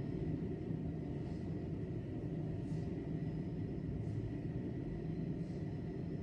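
Steady low rumble of city traffic and station ambience, with a faint steady high tone and soft hisses about every second and a half.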